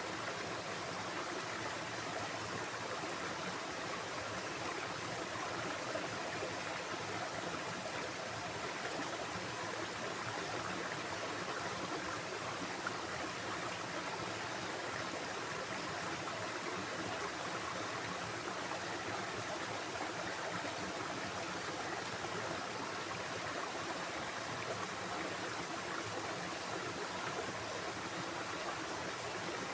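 Flowing stream water: a steady, even rush of running water.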